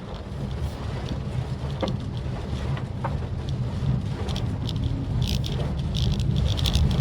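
Steady low rumble of a Maruti Suzuki Swift Dzire on the move, with rain pattering on the car that gets denser in the second half.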